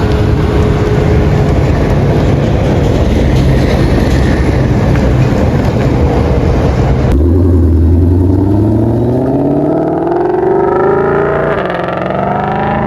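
A performance car under hard acceleration. First comes about seven seconds of loud, rough engine and exhaust noise. Then, after a sudden cut, the engine note climbs steadily in pitch as the car pulls away, stepping down briefly near the end as it shifts gear.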